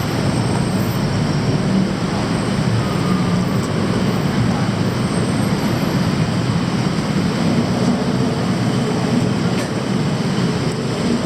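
Loud, steady low rumble of city noise, with no single event standing out.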